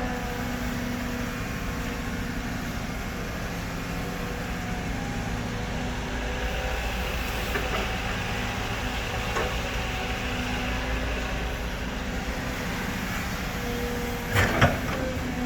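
Caterpillar 313D2 GC excavator's diesel engine running steadily, its hum dropping back in the middle and strengthening again later. A single metallic clank comes about a second before the end.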